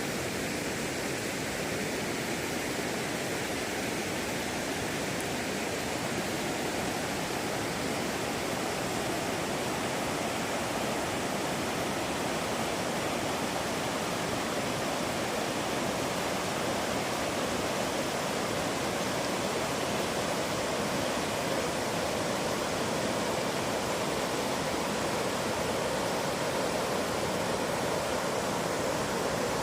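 River water rushing steadily, swollen after heavy rain.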